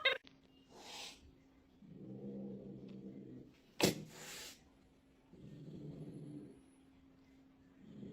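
A pet's low, rasping breath sound, repeating three times about three and a half seconds apart, each lasting about a second. A sharp click and a short hiss come near the middle.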